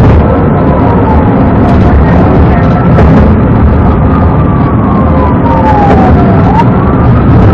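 Police car siren wailing, its pitch sliding slowly down and then sweeping quickly back up near the end, over a loud steady rumble of vehicle and road noise.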